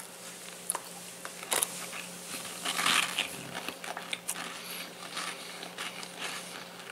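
A man biting into and chewing a crunchy Cheez Doodle cheese puff: scattered small crunches and crackles, busiest about three seconds in.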